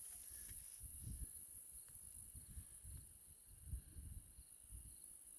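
Steady high-pitched hiss of insects such as crickets, with low wind rumble on the microphone and faint distant sounds.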